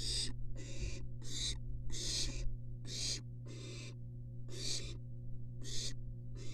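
Barn owl nestlings giving repeated raspy hissing calls, about two a second and sometimes overlapping, with a short lull midway. A steady low hum runs underneath.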